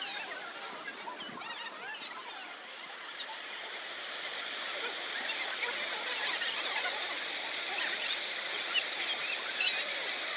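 Steady rush of a waterfall, its noise growing louder about four seconds in, with many short high-pitched sounds scattered over it.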